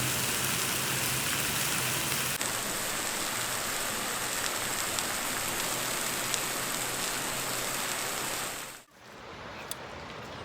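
Steak sizzling on a hot flat stone set over a campfire, a steady frying hiss. It cuts off suddenly near the end.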